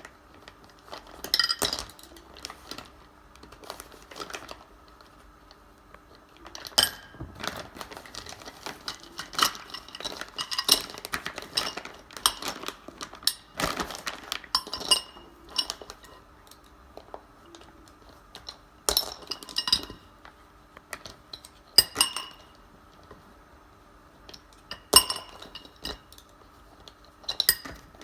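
Irregular clinks and knocks of hard objects being handled, several of them ringing briefly.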